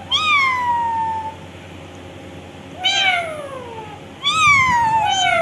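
Green parrot giving three drawn-out, meow-like calls, each sliding down in pitch; the last is the longest and loudest.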